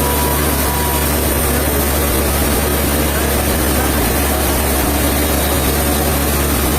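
Heavy sawmill machinery running steadily, a constant low hum under dense mechanical noise.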